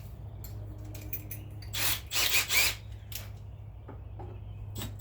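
Cordless drill with a Phillips bit backing out painted-over door hinge screws: scattered clicks of the bit in the screw heads and a short burst of the drill running about two seconds in.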